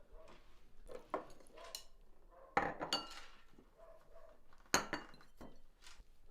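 Dishes and metal cutlery clinking and knocking. A series of sharp, separate clinks rings briefly, and the loudest come about two and a half seconds in and just before five seconds in.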